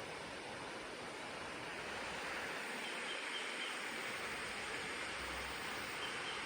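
Hatea River flowing: a steady rushing of water that grows slightly louder about two seconds in.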